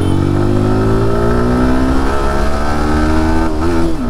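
Sport motorcycle engine accelerating hard, its pitch rising steadily as the bike picks up speed. Near the end the pitch wobbles and drops briefly, as at a gear change, over steady wind rumble.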